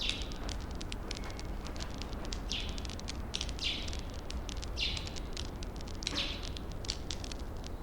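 Firewood burning in a campfire, crackling with many quick sharp snaps and pops, with a short hiss every second or so over a low steady rumble.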